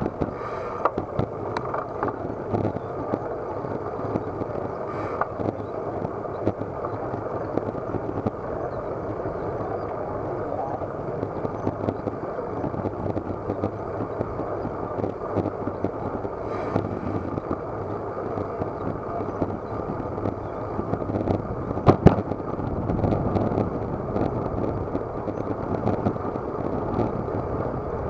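Muffled, steady rush of wind and road noise heard by an action camera on a moving racing bicycle, with scattered small clicks and one sharp knock about 22 seconds in.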